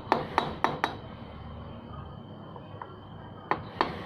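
Quick hammer taps on metal, about four strikes a second, each with a short ring. The tapping comes in two runs, one at the start and one starting near the end, with a pause between.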